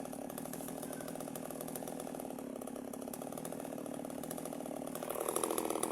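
Small chainsaw engine running steadily at low revs, the revs starting to climb near the end.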